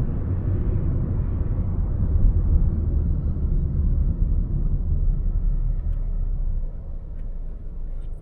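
Low rumble of a car driving on wet city roads, steady road and tyre noise that eases off about seven seconds in as the car slows.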